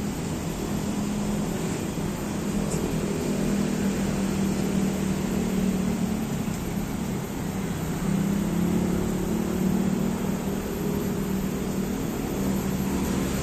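Road traffic: motor vehicle engines running with a steady low hum that swells about eight seconds in, as if a vehicle passes close by.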